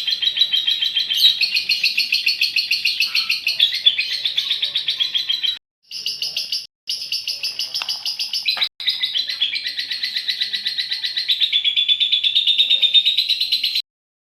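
Female lovebird's long, rapid, high-pitched chattering trill (ngekek). It breaks off for a moment a few times around the middle and stops shortly before the end.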